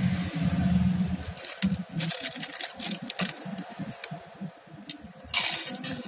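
Close-up eating sounds: scattered clicks and small wet noises of chewing and handling food, with a louder, brief rustle about five seconds in.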